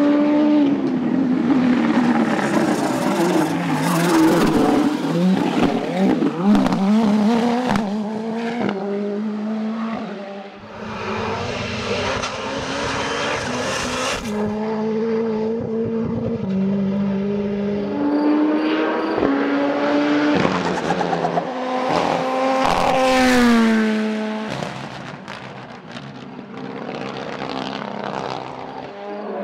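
Hillclimb race car engines at full throttle, revving hard with quick gear changes and pitch drops as the cars pass, in several short passes cut one after another.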